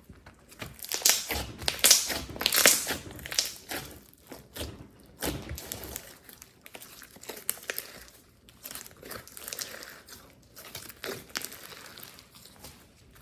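Slime being squeezed, stretched and folded by hand, giving irregular crackles and sticky pops, densest and loudest in the first few seconds, then sparser.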